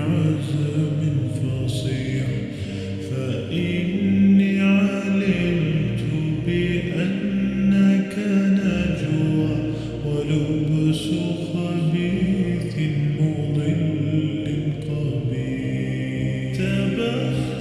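Vocals-only Islamic nasheed, slowed down with heavy reverb: layered voices holding long notes that shift in pitch every second or two, with no instruments.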